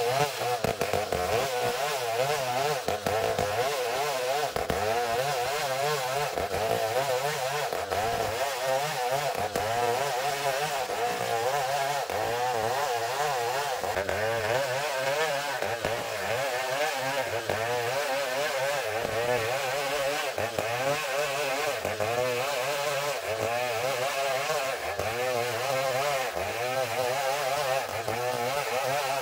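Band sawmill ("gergaji trio") cutting a long ulin ironwood log, its motor running continuously under load with a pitch that wavers up and down as the blade works through the hard wood.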